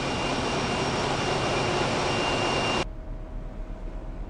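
A ferry's engine room with its main engines running: a loud, dense machinery noise with steady whining tones. It cuts off abruptly about three seconds in, leaving a much quieter hum with a faint steady tone.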